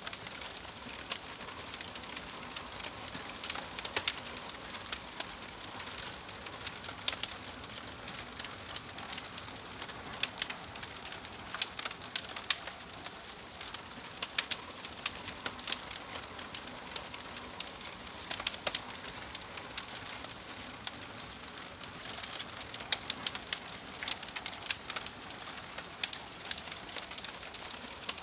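Crackling fire: a steady hiss of burning with irregular sharp pops and snaps, which come thicker in several clusters.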